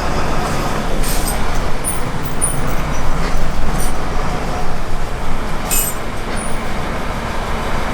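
Steady vehicle and road traffic noise, with a few short sharp clicks.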